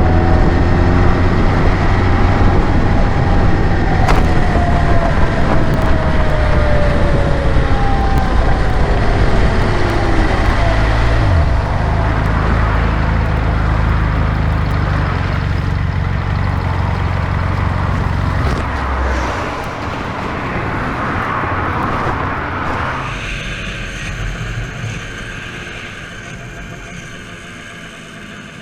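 Vehicle engine and road noise. A low rumble carries a tone that falls slowly in pitch over the first ten seconds. The rumble stops about two-thirds of the way through, leaving quieter traffic noise.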